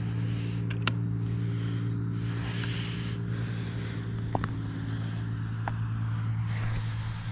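Motorcycle engine idling steadily, with a few light clicks over it.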